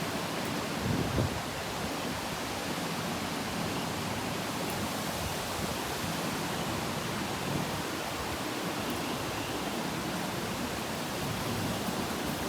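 Steady hiss of a thunderstorm's heavy rain and wind, with a brief low swell about a second in.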